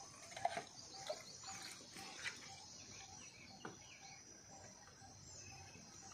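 Faint birdsong: short high chirps over a soft note repeated about three times a second, with a few light knocks.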